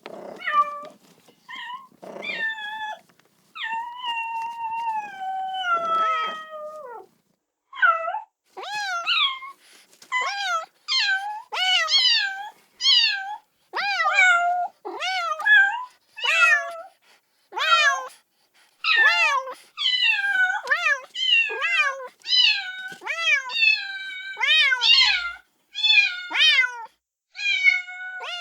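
Kitten meowing again and again, calling for its mother: a quick run of short, high meows that fall in pitch, with one longer, drawn-out falling call a few seconds in.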